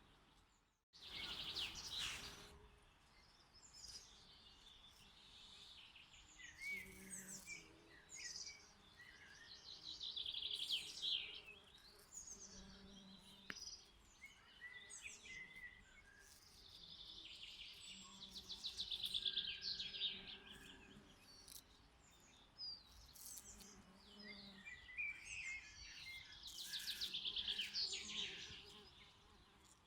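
Songbirds singing outdoors, with repeated chirping phrases and fast trills every few seconds. Bees buzz briefly now and then underneath. The sound drops out for a moment at the very start.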